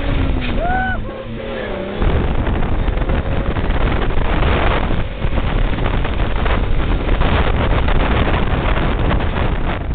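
Ford rat rod's engine running under way, a loud low rumble mixed with wind buffeting the microphone; it gets louder about two seconds in.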